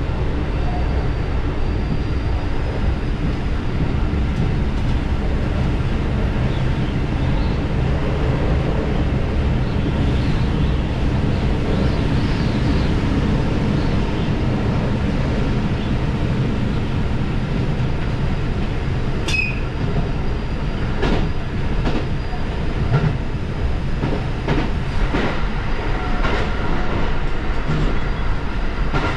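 Diesel railcar running along the line, its engine and wheels giving a steady rumble. In the last third the wheels click sharply on the track several times.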